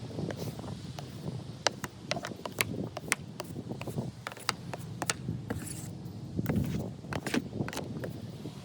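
Clearing snow off a car by hand: irregular sharp knocks and clicks over a low rustling.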